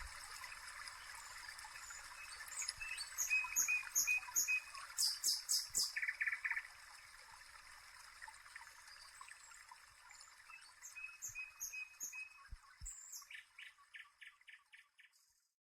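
Songbirds chirping in quick series of short repeated high notes over a steady soft hiss, all fading out near the end.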